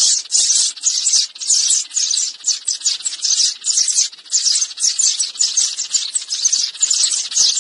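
Sparrows chirping in a dense, unbroken chatter, about three to four high chirps a second.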